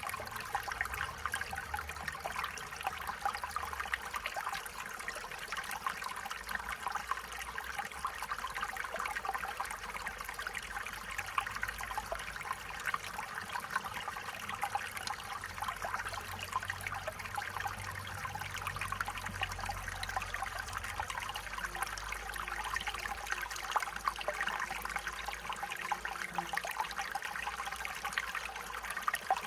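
Small stream of water running and trickling steadily over stones, a continuous babble of small splashes.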